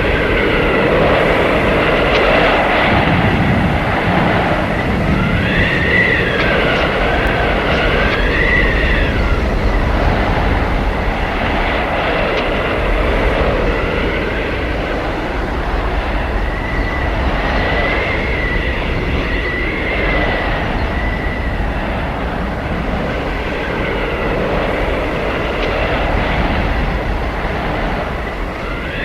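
Howling blizzard wind: a steady rushing roar with whistling howls that glide up and down in pitch, swelling several times.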